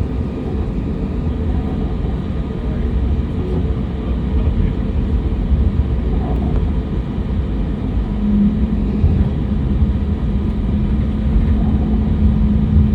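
Cabin noise inside an AirAsia airliner on the ground: a loud, steady low rumble with a faint engine hum, and a further steady hum that comes in about eight seconds in.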